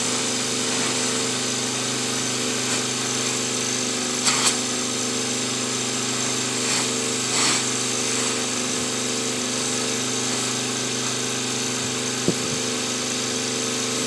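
Pressure washer running with a steady hum while spraying, with a couple of short hissing blasts about four and seven seconds in.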